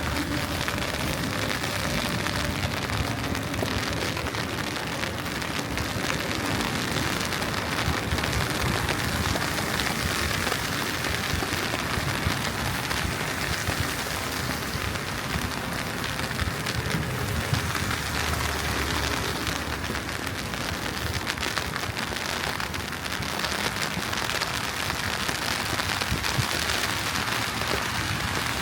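Steady hiss of a wet, slushy city street in falling snow, with a low rumble of traffic underneath.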